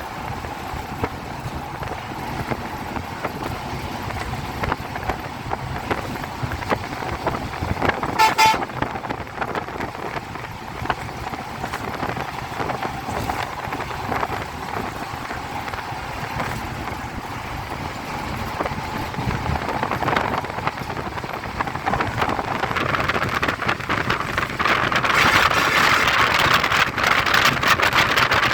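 Road traffic noise, with a brief vehicle horn toot about eight seconds in; the traffic noise grows louder near the end.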